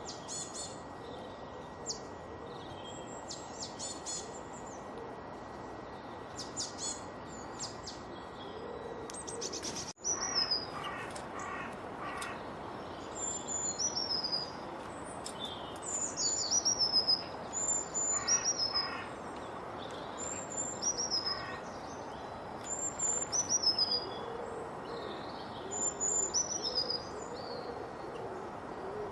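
Several wild birds singing and calling over a steady background hiss. The first ten seconds hold short high chirps. After an abrupt change about ten seconds in, one bird repeats a high down-slurred whistle about every second or two, with trills and lower hooting notes underneath.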